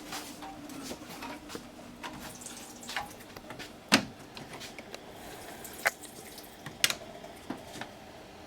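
Scattered light clicks and knocks of hand work on a truck engine, with a sharper knock about four seconds in.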